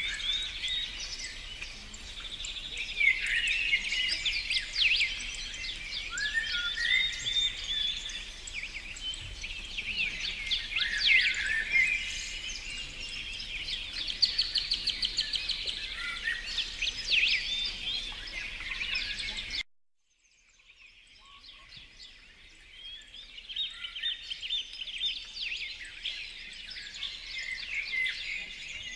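Songbirds singing outdoors, a mix of chirps, short whistled phrases and fast trills from several birds. The sound cuts out abruptly about two-thirds of the way through and fades back in over a few seconds, with the birds singing again near the end.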